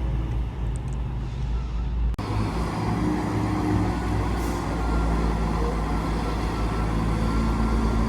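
Diesel train engine running with a steady low rumble. The sound breaks off abruptly about two seconds in and resumes at once.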